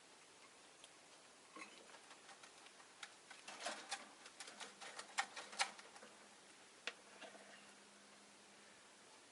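Rosy-faced lovebirds making a scatter of small sharp clicks and taps in their cage, busiest and loudest through the middle few seconds, with no calls. A faint low steady hum comes in about halfway.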